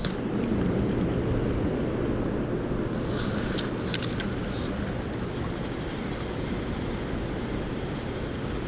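Steady low rushing of water released from a hydroelectric dam's turbines, with a faint steady low hum, and a single sharp click about four seconds in.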